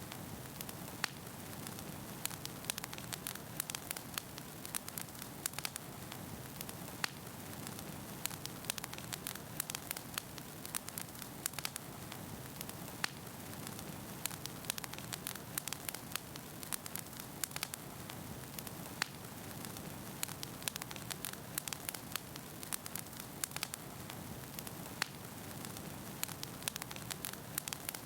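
Wood fire burning in a fireplace: a steady low rush of flames with frequent sharp crackles and pops of burning firewood, scattered irregularly throughout.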